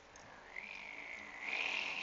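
A person making a car noise with their voice: a long, high, squealing tone that wavers and rises a little partway through.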